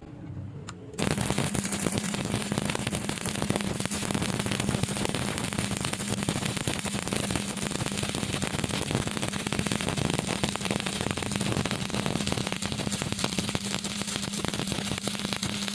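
Electric arc welding: the arc strikes suddenly about a second in, then crackles and sizzles steadily, with a steady low hum underneath.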